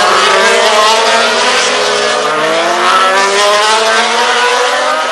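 MotoGP racing motorcycle engines running at high revs, their pitch climbing and dropping as the bikes accelerate and shift gears.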